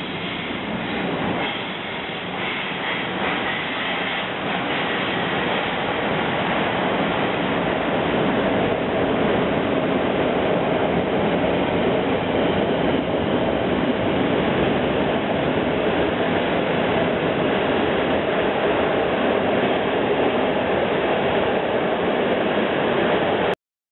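Intercity express train hauled by an EP09 electric locomotive running along an underground station platform. The rumble of wheels on rails swells as the coaches pass close by, with a faint high wheel squeal in the first few seconds, and cuts off suddenly near the end.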